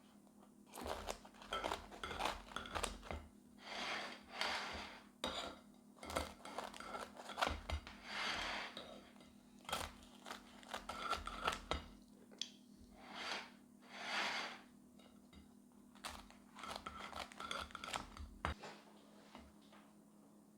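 A pizza being torn and cut apart by hand: irregular tearing and scraping strokes with light clicks, over a steady low hum that stops near the end.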